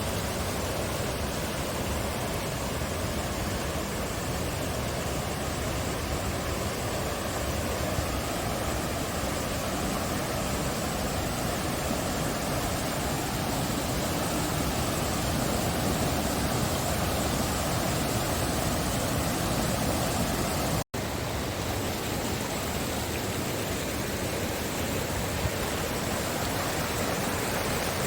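Steady, loud rush of falling water from a mountain waterfall, an even roar that breaks off for an instant about two-thirds of the way through.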